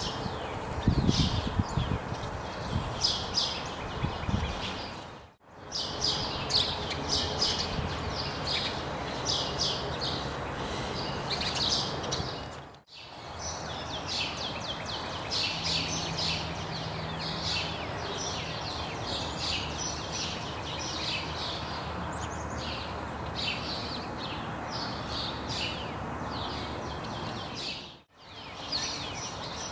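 Small songbirds chirping and twittering in quick, repeated high notes over a steady outdoor noise bed, with a few low thuds in the first few seconds. The sound drops out briefly three times.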